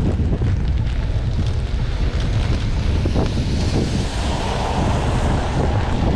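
Wind buffeting the camera's microphone in a storm: a steady low rumble, with a hiss that swells about four seconds in.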